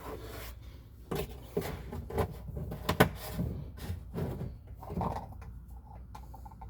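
A scattered series of clicks and knocks from objects being handled and set down, the loudest about three seconds in, over a low steady hum.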